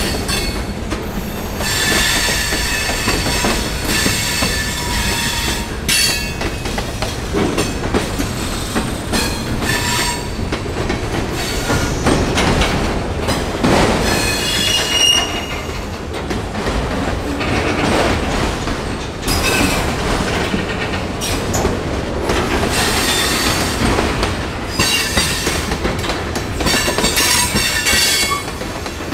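Train cars rolling past through the curves of a rail junction wye, wheels squealing in high tones on and off as the flanges grind the rail, with clacking over the rail joints.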